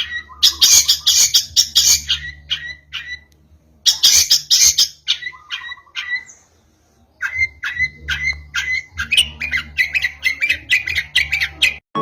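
Long-tailed shrike singing: loud harsh chattering bursts mixed with short sharp whistled notes, then after a brief pause a fast, quickening run of sharp notes. This is a young bird practising new song phrases.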